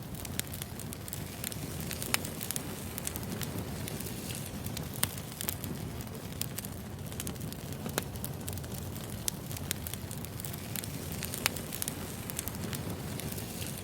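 Wood fire burning: a steady low rush with scattered crackles and a sharper pop every few seconds.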